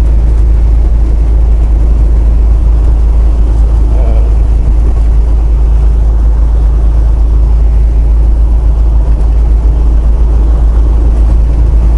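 Tractor-trailer driving down the highway, heard from inside the cab: a steady, loud low rumble of engine and road noise.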